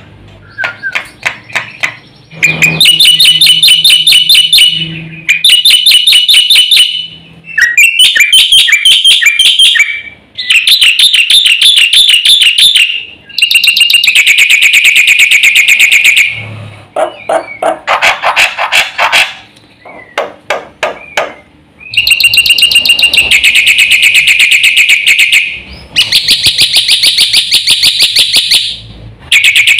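Black-winged myna (jalak putih) singing loudly in bursts of a few seconds each: fast, evenly repeated chattering notes, high-pitched, with short pauses between phrases.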